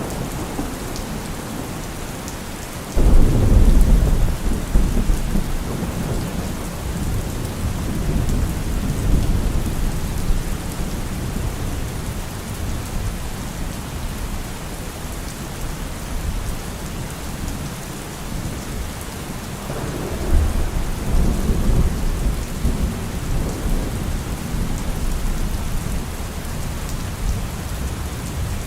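Heavy rain falling steadily, with a sudden loud clap of thunder about three seconds in that rolls on for several seconds, and a second, weaker rumble of thunder about twenty seconds in.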